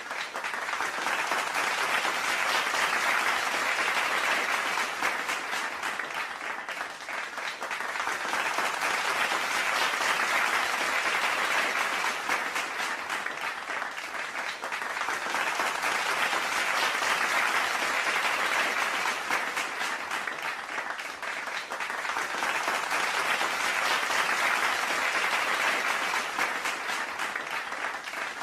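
Crowd applauding: dense, steady clapping that swells and eases in waves about every seven seconds.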